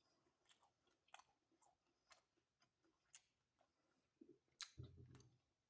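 Soft chewing of pizza close to the microphone: scattered wet mouth clicks, with a short closed-mouth hum about four and a half seconds in.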